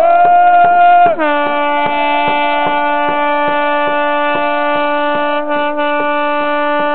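A horn holds one long loud note that drops to a lower pitch about a second in, then stays steady, over a regular beat of about three strikes a second.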